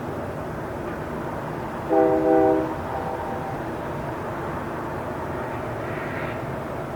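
Train horn sounding a short double blast about two seconds in, a chord of several tones, over the steady rumble and hiss of a railway station.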